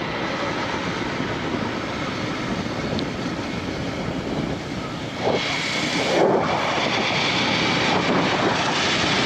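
Wind rushing over the microphone of a moving motorcycle, with road and engine noise beneath it, swelling briefly about five and six seconds in.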